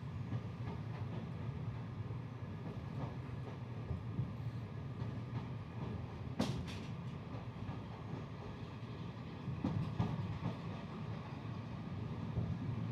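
A moving passenger train coach heard from inside: a steady low rumble of wheels on the rails, with scattered light clicks and knocks and one sharp knock about six and a half seconds in. The train is hauled by a Class 55 diesel locomotive.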